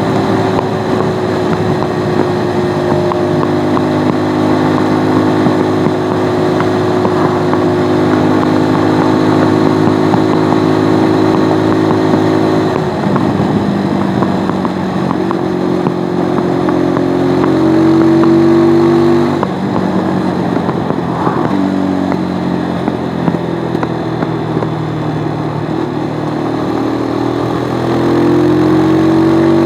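Stels Flex 250 motorcycle's single-cylinder engine under way, running steadily at first, then dropping in pitch about halfway and climbing twice with a sudden fall between, as the bike accelerates and changes gear.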